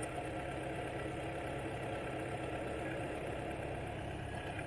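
Kawasaki Z900's inline-four engine idling steadily.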